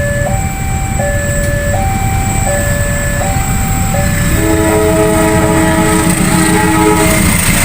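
Level-crossing warning alarm alternating between two pitches, switching roughly every three-quarters of a second. About four seconds in, a train horn takes over with a chord of several notes held for about three seconds, over the low rumble of a train.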